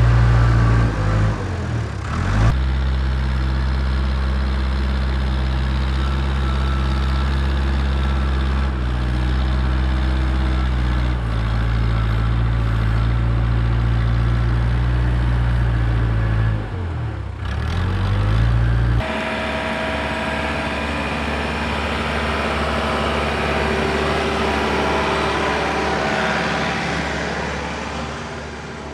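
Heavy-equipment diesel engine running under load while dirt is worked, with a deep, steady engine note that shifts abruptly a couple of times. About two-thirds of the way in, the deep note drops out, leaving a lighter, noisier machine sound.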